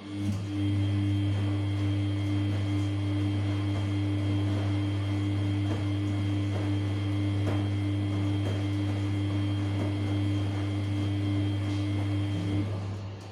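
Samsung P1271 washing machine giving out a steady low electric hum, which starts abruptly, runs for about twelve seconds and stops abruptly.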